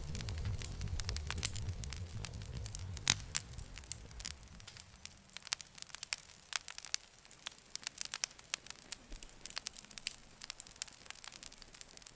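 Campfire wood crackling and popping in sharp, irregular snaps. A low rumble under the crackle fades out about four seconds in, leaving sparser pops.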